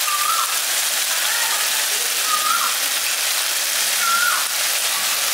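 Spiced masala frying in oil in a wok, a steady sizzling hiss. A bird calls in the background, a short note that drops in pitch, repeated about every one and a half to two seconds.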